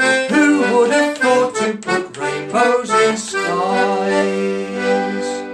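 Accordion music closing the song: a moving melody line, then a long held chord from about halfway through.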